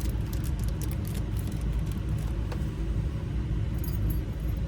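A steady low rumble, with a few faint metallic clicks as small key and lock parts are handled.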